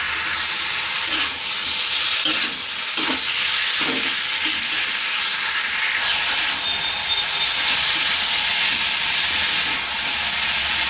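Chicken pieces sizzling steadily as they fry in hot mustard oil in a kadai. A spatula scrapes and stirs them against the pan a few times in the first four seconds.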